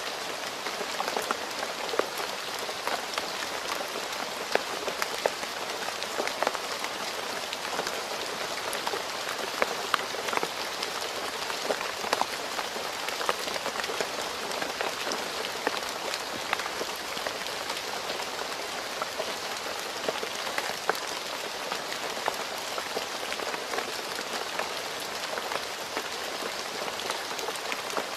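Steady rain falling on a road surface, an even hiss with many sharp individual drops striking throughout.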